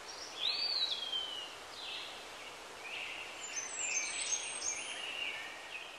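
Birds calling over a steady outdoor hiss: one note that swoops up and slides down about half a second in, then a run of short high chirps through the middle.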